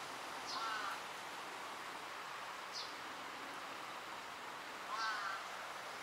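Birds calling: two short harsh calls, about half a second in and about five seconds in, and a brief high note near the three-second mark, over steady background noise.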